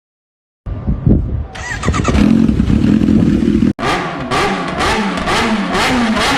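Motorcycle engine sound starting suddenly after silence: a steady held note, a brief cut, then repeated quick revs rising and falling about twice a second.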